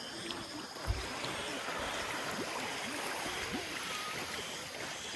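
Small waves washing and lapping steadily on a sandy beach shore, with a short low thump about a second in.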